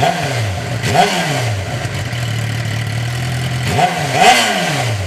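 A 2009 Suzuki GSX-R750's inline-four engine, breathing through a Jardine GP1 slip-on exhaust, is blipped from idle four times. There are two single revs about a second apart at the start, then a quick pair near the end. Each one rises and drops straight back to a steady idle.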